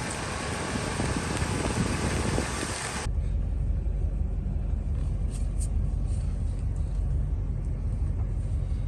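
Wind noise on the microphone for about three seconds, then an abrupt change to the steady low rumble of a 2000 Ford F250's 5.4-litre V8 idling, heard from inside the cab. The engine is warmed up and idling smoothly after its IAC valve and throttle body were cleaned.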